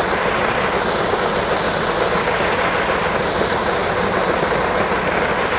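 Combine harvester running: a steady, even mechanical noise with a hiss.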